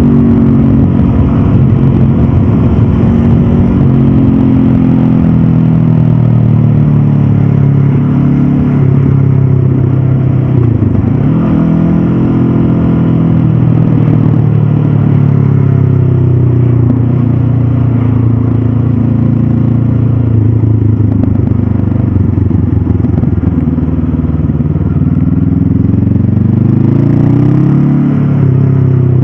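Stock 2022 Honda CB500F's 471 cc parallel-twin engine running hard under way, its pitch falling and climbing again as the revs change, with a sharp drop and pick-up about eleven seconds in and revs rising near the end.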